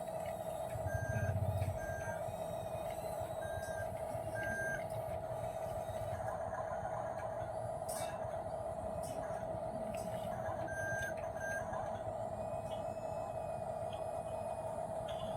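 Remote-control toy truck with a steady high electric whine and short, irregular electronic beeps, plus a brief low rumble about a second in.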